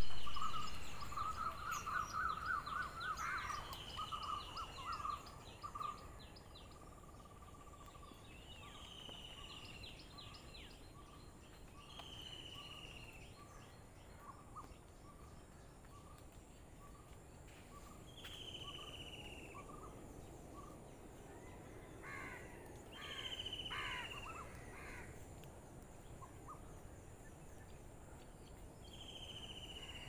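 Wild birds calling: one repeats a clear, falling whistled note every three to four seconds, while a fast run of short, repeated notes fills the first few seconds and a harsher cluster of calls comes about three-quarters of the way through. A faint, steady high-pitched hum lies underneath.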